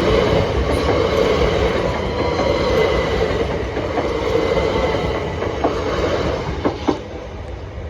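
Class 377 Electrostar electric multiple unit running over the level crossing: a loud rolling rumble of wheels on rails with a thin steady whine, and a few sharp clacks near the end as the sound fades.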